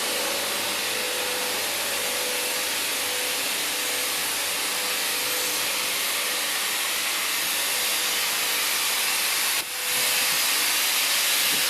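Steam hissing steadily from a standing steam locomotive, a 36 class engine, as it waits with steam up, with a faint steady tone under the hiss. The hiss dips for a moment about ten seconds in, then carries on slightly louder.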